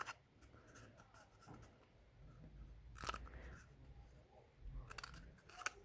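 Scissors cutting a cardboard toilet roll tube: a few faint snips, spaced a second or two apart.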